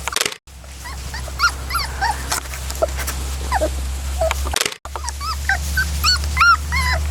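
A litter of 3½-week-old puppies whimpering and squeaking: many short, high, rising-and-falling whines one after another, coming thicker toward the end.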